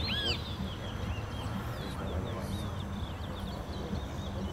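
Towa-towa birds singing bursts of sharp, arching whistled chirps, several at once right at the start and then only scattered single notes, over a steady low hum and background murmur.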